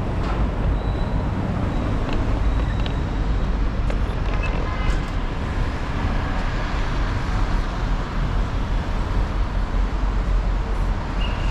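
Steady low rumble of a moving vehicle, with a few faint brief clicks and tones over it.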